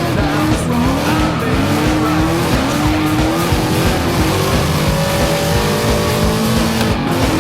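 Engines revving up and down again and again, with tires skidding and squealing, from a Mustang and motorcycles drifting.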